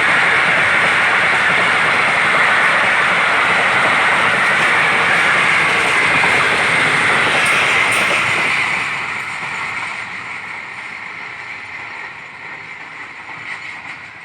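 Express passenger train's coaches rushing through at speed, a loud steady rush of wheels on rail. After about nine seconds it fades away as the train recedes.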